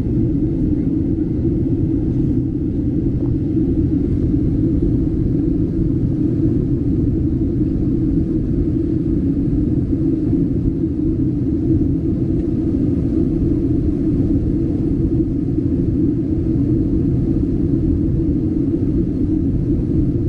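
Steady low rumble of engine and airflow noise inside the cabin of a Southwest Airlines Boeing 737 in flight.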